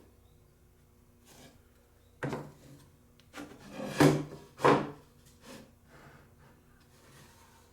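Wooden knocks and rubbing as plywood pieces are handled and set down: about five separate knocks over three seconds, the loudest two in the middle.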